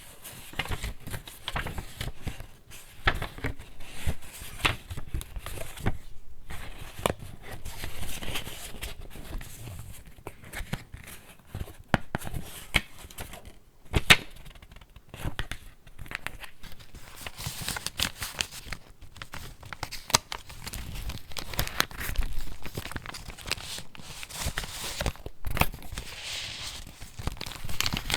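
Pages of a handmade junk journal being turned and handled: irregular paper rustling and crinkling with crisp snaps of stiff pages, the loudest about fourteen seconds in.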